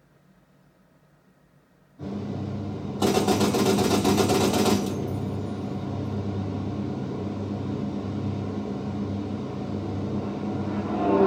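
Movie soundtrack played through in-ceiling home-theater speakers. After about two seconds of silence, a steady low pulsing drone starts, with a loud hiss from about three to five seconds in, and the sound swells again near the end.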